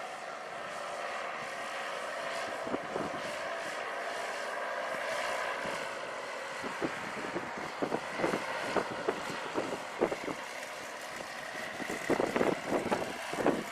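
Paramotor engine and propeller running steadily, its pitch drifting slightly. From about halfway in, irregular gusts of strong wind buffet the microphone.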